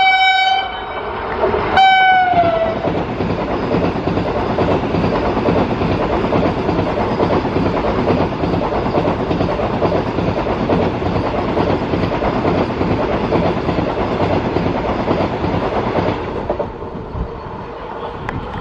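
Vande Bharat Express electric train sounding two horn blasts, the second sliding down in pitch as it ends. Then the steady rush of its coaches passing close alongside on the next track, which drops away about sixteen seconds in.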